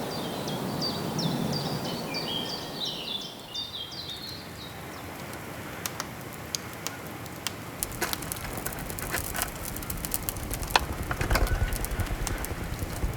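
A bird singing a fast run of repeated chirps for the first few seconds. From about six seconds in come sharp, irregular crackles and pops, denser towards the end, like burning wood crackling in a fireplace.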